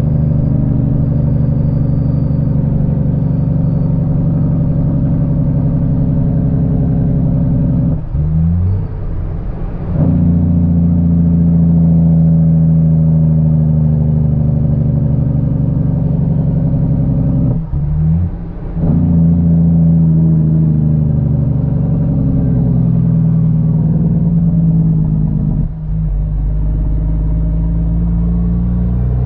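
CAT C13 diesel of a Kenworth W900B dump truck pulling under load and working up through the gears. The engine note drops out three times for a shift, about 8, 17 and 26 seconds in, and the first two shifts carry a quick rising blip of revs before it pulls again.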